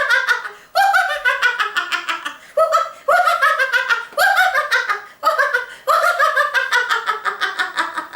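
A woman laughing in about six bouts of quick 'ha-ha-ha' pulses, each bout starting high and falling in pitch. This is deliberate laughter-yoga laughter, acting out being tickled by bugs.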